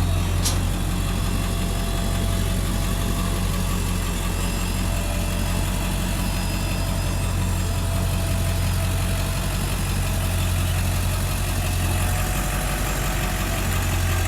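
A vehicle engine idling steadily, an even low hum that neither revs nor changes pitch, with a single sharp click about half a second in.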